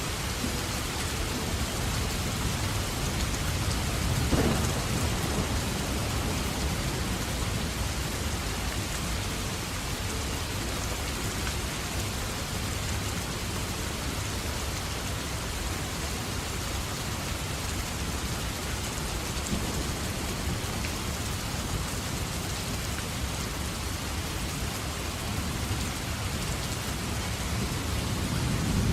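Steady heavy rain falling in a thunderstorm, with low rolls of thunder swelling about four seconds in and again near the end.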